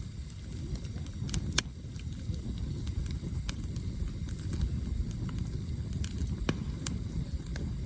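Campfire of burning firewood crackling, with scattered sharp pops, the strongest about one and a half seconds in and again near the end, over a steady low rumble.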